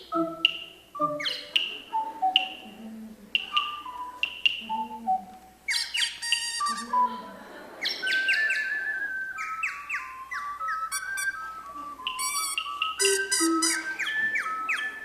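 Ocarina ensemble imitating birdsong: short whistled chirps that slide down in pitch, overlapping from several players, with fast trills and warbles in the second half.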